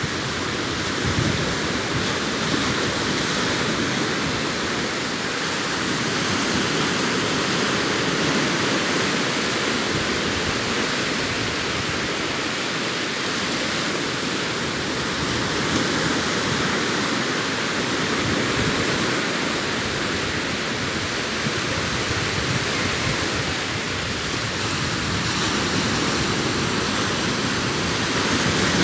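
Sea waves breaking and washing up a sandy beach: a steady rush of surf that swells and eases slowly every few seconds.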